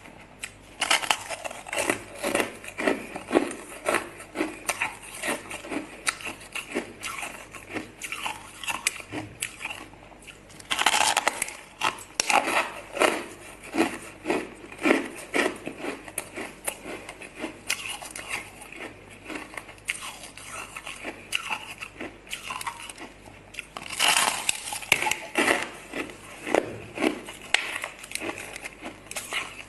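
Ice being bitten and chewed close to the microphone, a long run of short, sharp crunches, with denser crunching about eleven seconds in and again near twenty-four seconds.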